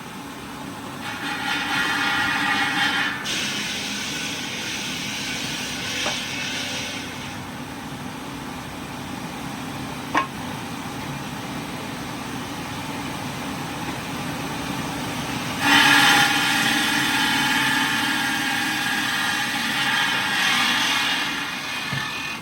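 Heavy industrial machinery running steadily, with two louder spells of hissing and whining, from about a second in and again from about 16 seconds, and a single sharp click near the middle.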